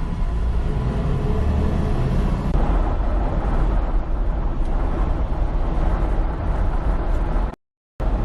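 Semi-truck cab interior while driving: a steady engine and road rumble with a hiss over it, cutting out completely for about half a second near the end.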